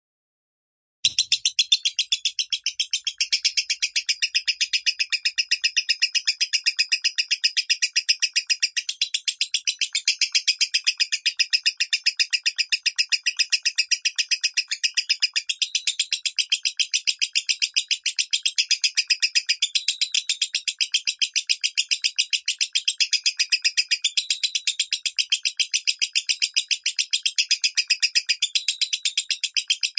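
Lovebird singing in the high, thin "minor" voice: a long, unbroken stream of rapid, evenly spaced chirps that starts about a second in.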